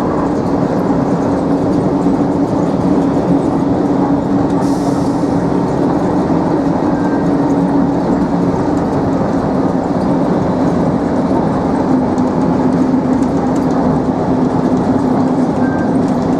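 Skylink automated people-mover train running along its guideway, heard from inside the car: a steady rolling rumble with a constant hum. There is a brief hiss about five seconds in.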